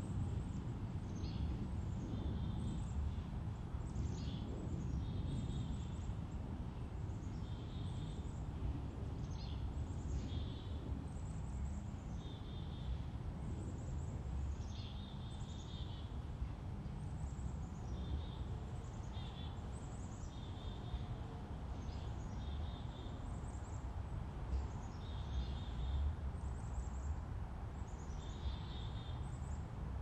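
Birds calling: short, high chirps, each a quick falling note that settles into a brief buzz, repeated every one to two seconds over a steady low rumble.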